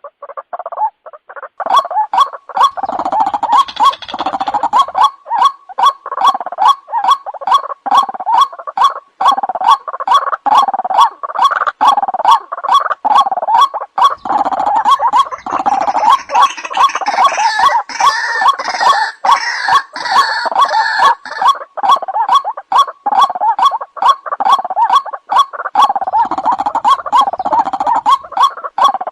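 White-breasted waterhen (ruak-ruak) calling: a fast, unbroken run of the same harsh, gargling call repeated evenly, the kind of recording played as a lure call to draw the birds in. A higher, rougher layer of calls joins in between about 15 and 21 seconds in.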